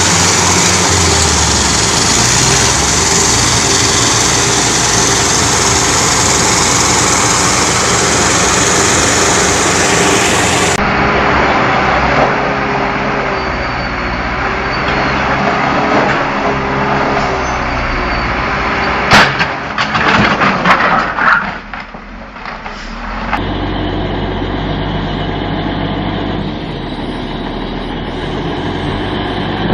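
Heavy machinery diesel engines running steadily. About two-thirds of the way in there is a sharp bang, followed by a rapid run of knocks and clattering.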